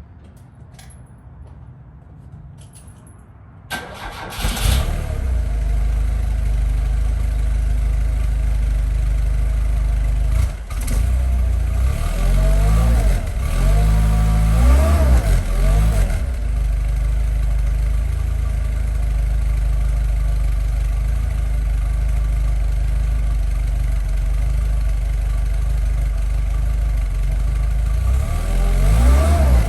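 1980 Fiat Spider's twin-cam four-cylinder engine on a cold start: a few light clicks, then it cranks briefly and catches about four seconds in. It dips once, is revved up and down several times, then settles to a steady idle, with more revs near the end.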